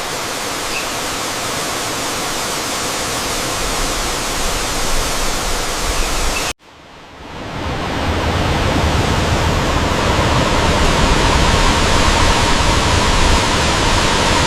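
Waterfall pouring into a pool: a steady rush of falling water. It cuts out abruptly about six and a half seconds in, then fades back in with a deeper rumble.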